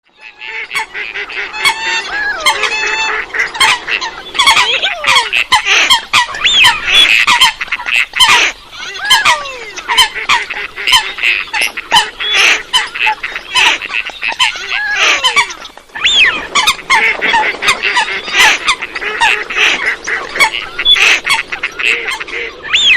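A dense flock of coots (water hens) calling, many overlapping calls at once, several sliding down in pitch, with brief lulls about eight and sixteen seconds in.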